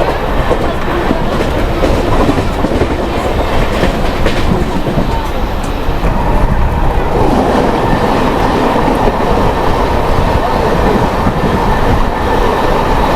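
Express train with LHB coaches running at speed: continuous wheel-on-rail rumble and rattling clatter. A faint steady whine joins about halfway through.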